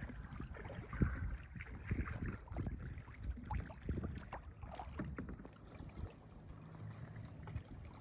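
Kayak paddle dipping into lake water: small splashes and drips at an irregular pace, over a low rumble.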